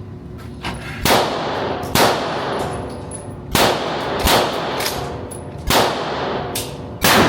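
Gunshots from firearms: six loud shots at uneven intervals, with a few fainter shots between, each shot trailing off in a long echoing tail.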